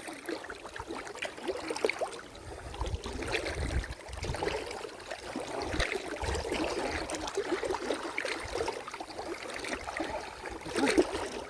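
Muddy water sloshing and splashing in quick, irregular movements, with a few low thuds.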